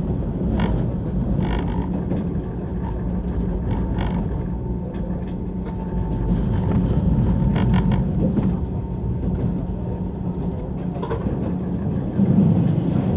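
Passenger-car interior noise of a JR 185 series electric train in motion: a steady low running rumble with occasional sharp clicks from the wheels and track.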